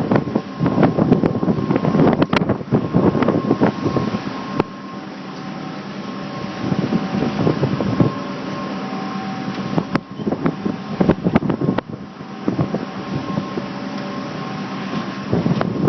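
Wind buffeting the microphone in irregular gusts aboard a sailboat under way, with crackling hits; strongest in the first few seconds, easing around four seconds in, and gusting up again several times.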